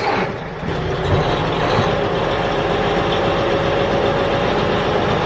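Tractor engine running steadily, a mini tractor at work.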